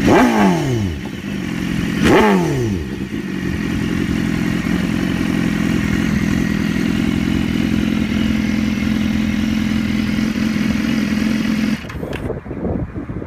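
Big motorcycle engine revved twice through its exhaust, each rev rising sharply and falling back. The engine then holds a steady note until it cuts off abruptly near the end.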